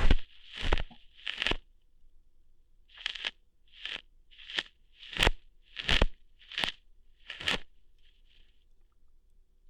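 Ear-hair plucking sounds made close to the microphone: about ten short crackly ripping pops, one every second or less, with a brief pause about two seconds in and a fainter one near the end.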